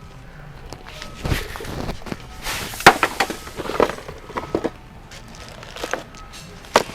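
Bird seed showering down and scattering on a hard floor: a spray of small ticks and clatters, loudest about three seconds in, with a few stray ticks afterwards.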